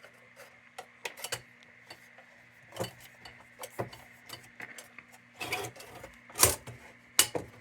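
Irregular small metallic clicks and taps from handling a tin lantern and tightening the knob blocks that lock its glass globe in place, with the loudest knocks in the second half. A faint steady hum runs underneath.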